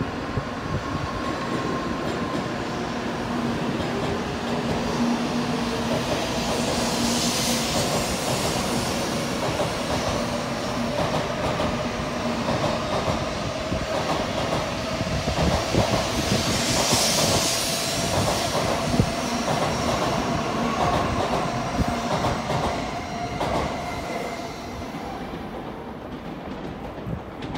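N700A Shinkansen train pulling out and gathering speed alongside the platform: a steady rolling rumble with a faint whine that climbs slowly in pitch, and two swells of hiss as the cars go by. It grows quieter near the end.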